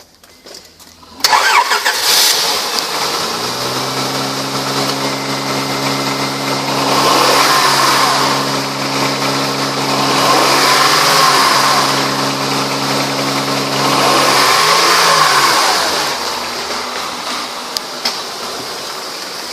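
2004 Honda Pilot's 3.5-litre V6 cranks and starts about a second in, then runs, its sound swelling a few times as the engine speed rises and falls.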